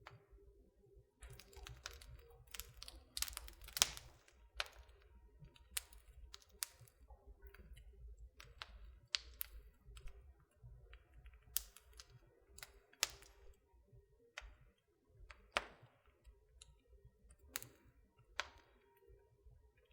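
Wood fire in a fireplace crackling: irregular sharp pops and snaps, several a second at times, the loudest about four seconds in, over a low rumble.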